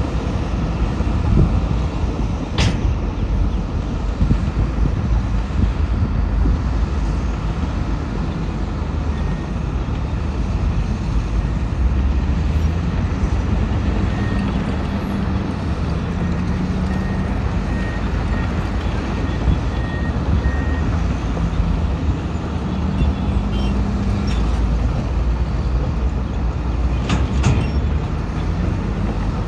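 Heavy diesel earthmoving machinery, a bulldozer and dump trucks, running steadily under load with a deep engine rumble that shifts in pitch. A faint reversing alarm beeps for several seconds midway, and a short sharp sound cuts through near the start and again near the end.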